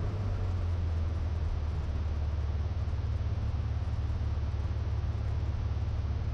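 Cessna 182 Skylane's piston engine and propeller running steadily at low taxi power, a constant low drone heard through the aircraft's intercom recording feed.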